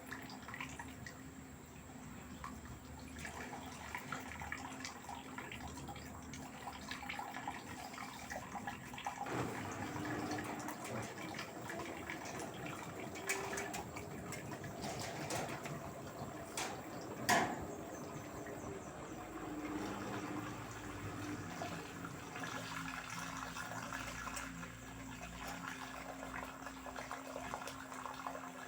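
LG direct-drive washing machine with water running and sloshing in the drum over a steady hum, with a couple of sharp clicks or knocks partway through.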